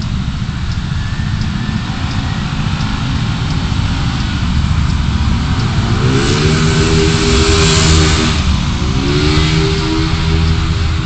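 Car driving in city traffic: steady engine and tyre noise, then about six seconds in a vehicle engine revs up, its pitch rising and holding, dipping briefly as if for a gear change, and rising again. Faint, evenly spaced ticks sound throughout.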